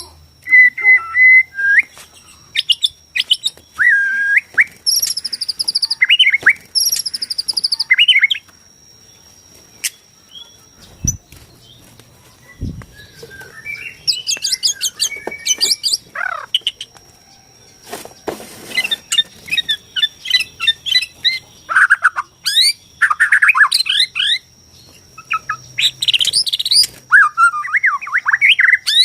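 White-rumped shama (Borneo murai batu) singing in loud bursts of varied whistles, quick trills and harsh chattering notes, with a pause of several seconds about a third of the way in. A faint, steady high tone runs underneath.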